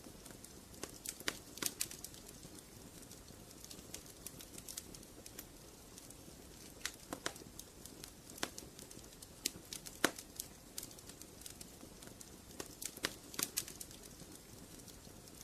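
Wood fire burning in a fireplace, crackling with irregular sharp pops over a soft steady hiss; the loudest pop comes about ten seconds in.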